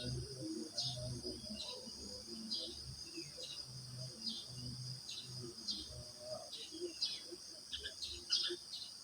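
Crickets chirring steadily at a high pitch, with short bird chirps repeating every half second or so, over faint low sounds underneath.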